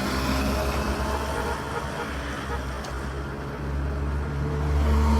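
Road traffic: a motor vehicle's engine running close by, its low rumble growing louder toward the end as it draws near.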